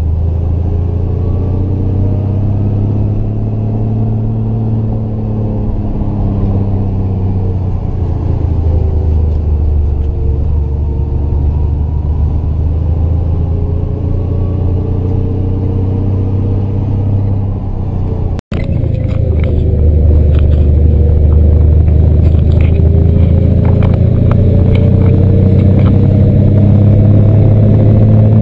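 Triumph GT6 Mk2's straight-six engine pulling uphill, its pitch rising and falling as the revs change. A short break about two-thirds of the way through, after which it is louder, with ticks and clatter over the engine.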